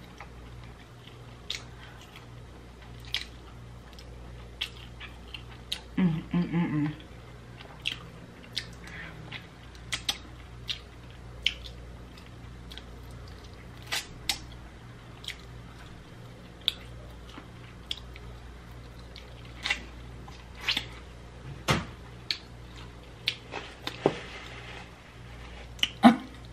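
Close-miked eating of honey-BBQ pork ribs: wet chewing and biting with sharp mouth clicks and lip smacks every second or so. A brief hummed voice sound about six seconds in, over a faint steady low hum.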